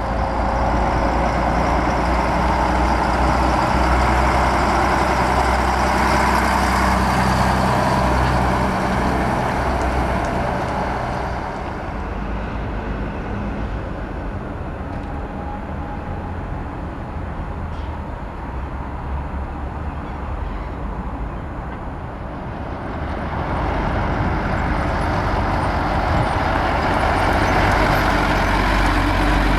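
Heavy diesel trucks driving past. Engine rumble is loud for the first ten seconds or so, dies down about twelve seconds in, then another truck builds up from about twenty-three seconds.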